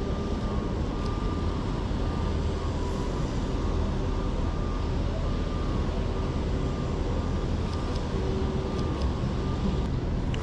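Steady city street background noise: a low traffic rumble with a faint steady hum, and a few faint clicks.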